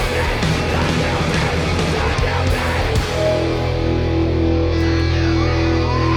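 Live hardcore punk band playing at full volume, with distorted electric guitars and drums. About three seconds in, the busy hitting stops and held, ringing guitar notes carry on.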